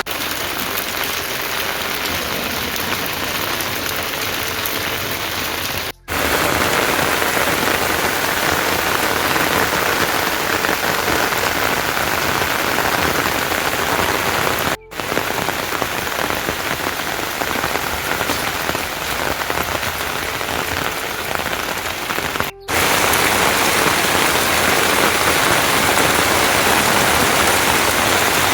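Heavy rain falling steadily, an even hiss of rain on surfaces, broken three times by a momentary gap.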